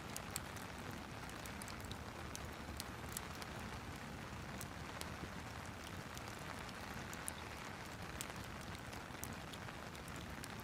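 Steady rain mixed with a fireplace: a constant rushing hiss with scattered sharp pops and ticks throughout.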